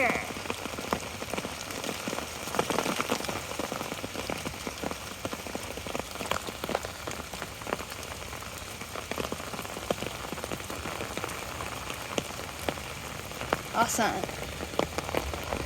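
Steady rain with many irregular drop taps, heard from under an umbrella.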